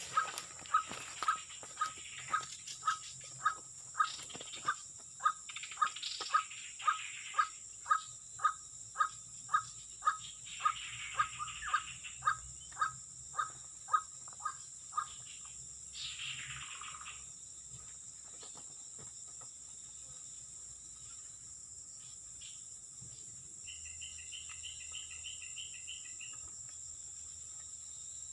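White-breasted waterhen (ruak-ruak) calling: a long run of sharp, evenly repeated notes, about two a second, that stops about halfway through. A steady high insect drone runs underneath, and near the end there is a short rapid trill.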